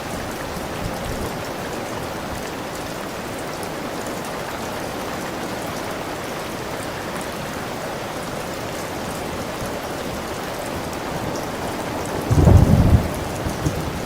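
Steady rain falling, with one short, loud clap of thunder about twelve seconds in.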